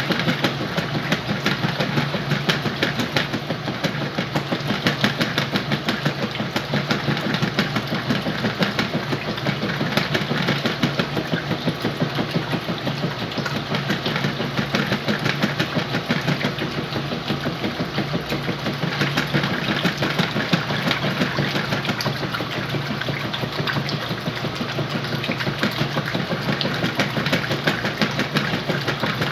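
Whirlpool washing machine running through its cycle with a load of sheets and pillows: a steady hum under a fast, even rattle.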